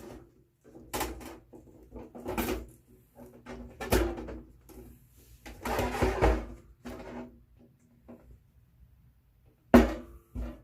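Camp cooking gear being handled: irregular knocks and clatters, some with a brief metallic ring, the sharpest one near the end.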